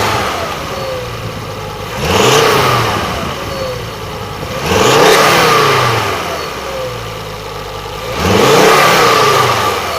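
Ford Focus Mk2 engine idling and revved up three times, each rev rising and falling back to idle. A slight whirring noise can be heard with the revs.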